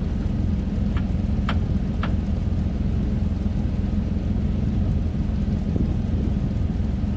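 A motor vehicle running with a steady low rumble. Three short, sharp squeaks come about half a second apart, between one and two seconds in.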